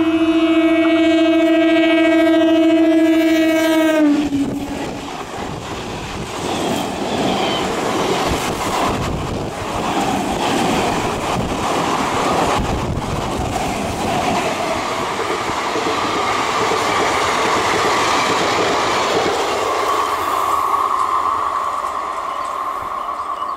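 A WDM-3 series diesel locomotive's horn sounds one long, steady blast for about four seconds, then cuts off. After it comes the close rumble and clickety-clack of an electric local (EMU) train passing, with a steady high whine in the last few seconds.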